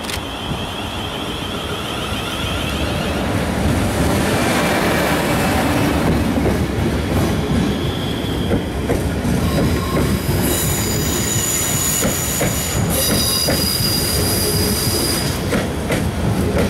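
Class 444 electric multiple unit running past, its wheels and running gear giving a dense rumble that builds over the first few seconds and then holds loud. From about ten seconds in a high-pitched wheel squeal rings for around five seconds, and a few sharp clacks from the wheels over rail joints or points come near the end.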